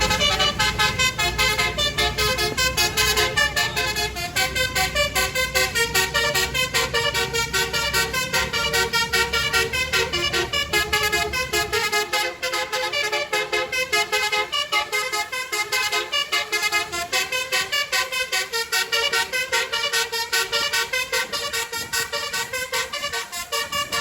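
Basuri multi-tone vehicle horn playing a melody in quick, rhythmic toots of changing pitch. A low rumble underneath stops about halfway through.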